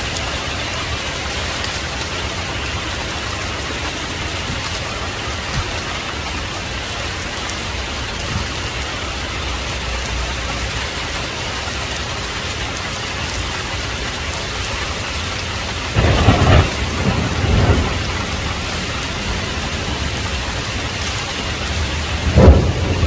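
Heavy rain falling steadily, with a crack and rumble of thunder about two-thirds of the way in that lasts a couple of seconds, and another sharp thunderclap near the end.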